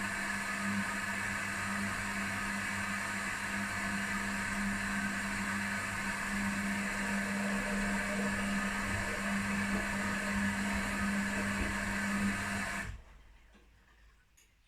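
Two washing machines, an Electrolux and an Arctic, running their quick 30 °C wash programmes: a steady mechanical hum with a low tone. It cuts off abruptly about 13 seconds in.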